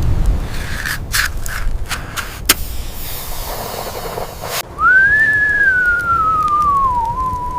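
Scattered knocks and handling noise, then, after a sudden break, a single clear whistling tone that rises briefly and then slowly glides down in pitch for about four seconds.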